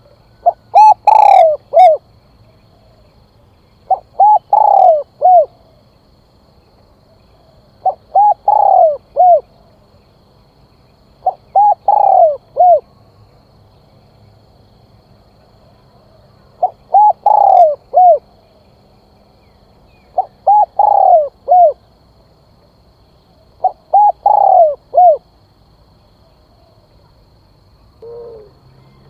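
Spotted dove cooing its calling song: seven phrases of three or four coos each, repeated every three to four seconds. A fainter, lower-pitched coo comes near the end.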